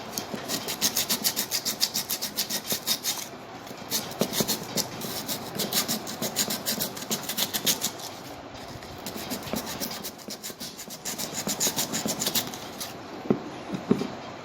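Quick back-and-forth abrasive hand strokes on the sunken compass being restored, about four a second. They come in three bouts with short pauses between.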